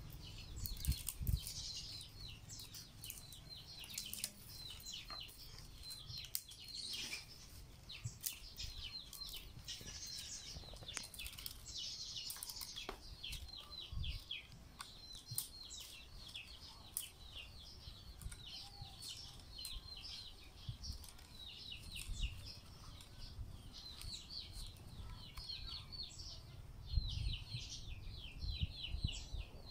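Small birds chirping in quick runs of short, high, falling notes throughout, over scattered soft knocks and rustles of rattan strands being handled during weaving.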